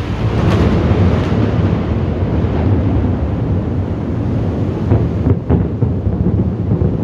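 Thunder rumbling through the steady noise of a heavy thunderstorm. The rumble swells just after the start, with a few sharper cracks on top.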